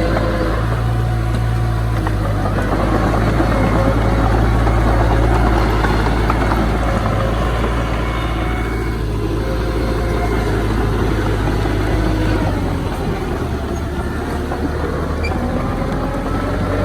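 Diesel engine of heavy earthmoving machinery, a dump truck or bulldozer, running steadily with a deep drone; its low note changes about twelve seconds in.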